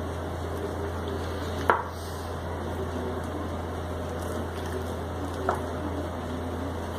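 Two light knocks of kitchenware against a countertop, about four seconds apart, over a steady low hum.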